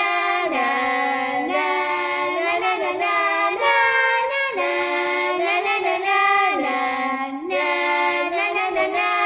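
Wordless high-pitched singing in long held notes, each about a second, stepping up and down in a melody, with light music behind it.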